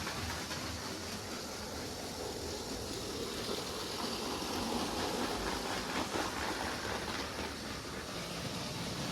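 LEGO motorised train running on plastic track: a steady motor whir and wheel rumble, with a few clicks about six seconds in.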